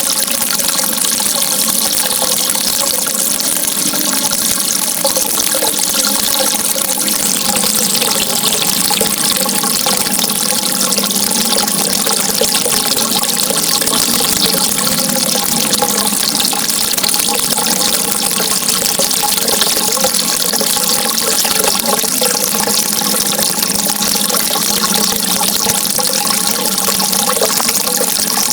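Flowing water: a steady, unbroken rush with a wavering, gurgling texture.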